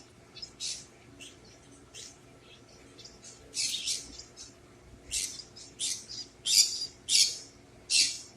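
Pet bird chirping: a series of short, high chirps, scattered and faint at first, then louder and coming about every half second in the second half.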